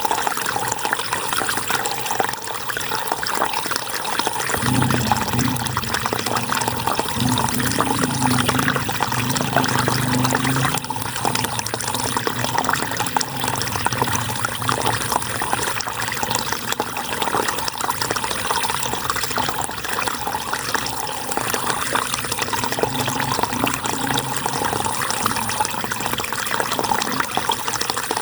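River water flowing steadily, an even rushing noise. A deeper low rumble joins for several seconds from about five seconds in.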